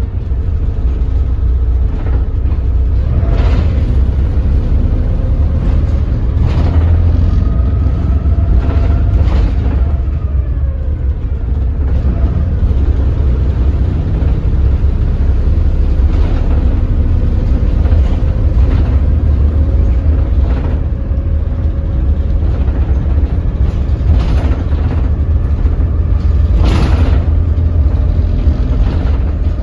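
Doosan DL08K diesel engine of a BS106 city bus pulling at low speed, a heavy steady rumble whose pitch rises and falls as it shifts at low rpm, with a few brief knocks or rattles. Shifting at such low rpm sets up strong vibration.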